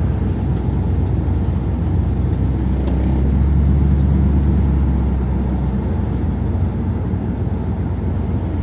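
1957 Ford Thunderbird's V8 running under way, a steady low engine note with road noise, swelling a little about three seconds in and easing back. The engine is running on two barrels of its carburettor.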